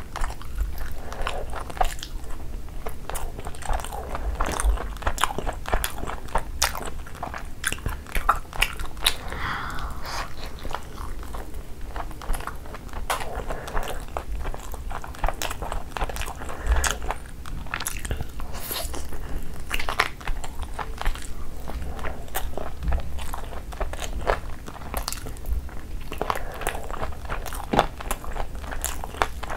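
Close-miked eating sounds: biting and chewing mouthfuls of green tandoori chicken, a dense run of small clicks and smacks throughout.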